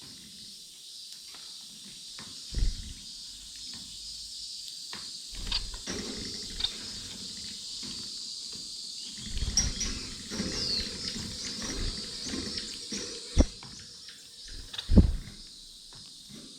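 Small aviary finches calling with soft high chirps throughout, with a few short gliding calls midway. Scattered low thumps and knocks from birds moving and feeding, the loudest near the end.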